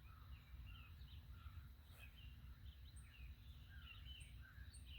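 Faint chorus of several songbirds chirping and twittering, many short rising and falling notes, over a low steady background rumble.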